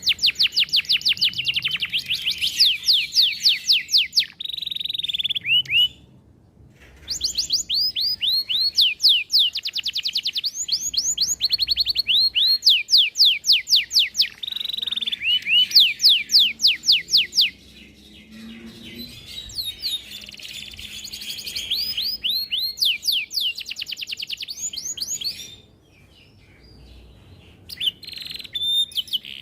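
Domestic canary singing a long song of fast trills and runs of quickly repeated sweeping notes, broken by a few short pauses.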